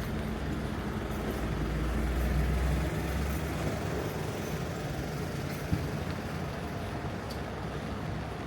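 City street traffic on a wet road: a heavy vehicle's low engine rumble that falls away about three seconds in, over a steady hiss of traffic, with one short sharp knock near six seconds.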